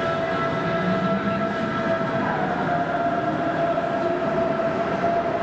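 DB Class 423 S-Bahn electric multiple unit pulling out of an underground station: a steady electric whine over rumbling wheel and rail noise, the whine stepping up slightly in pitch about two seconds in as the train gathers speed.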